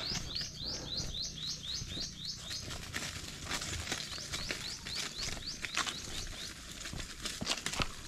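A bird calling a fast run of short, falling high notes, about four a second, that fades out about three seconds in. Scattered crackling and rustling, as of movement through dry vegetation, runs underneath and carries on after the calls stop.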